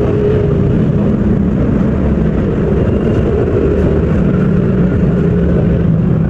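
A motor vehicle engine running steadily: an even low rumble with a faint hum and no change in speed.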